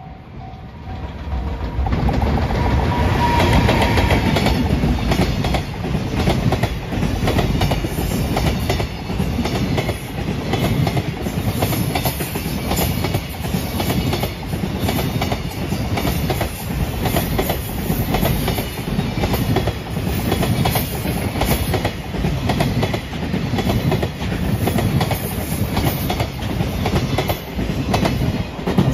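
A long freight train of container wagons passing close by, with a steady rhythmic clatter of wheels over the rail joints. The sound swells in about two seconds in as the train arrives and stays loud until it cuts off at the end.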